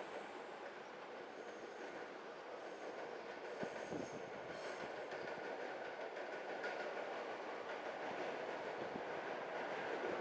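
Electric commuter train running on the tracks, its rolling noise growing steadily louder as it approaches. A couple of sharp wheel knocks come about four seconds in, over a faint high whine.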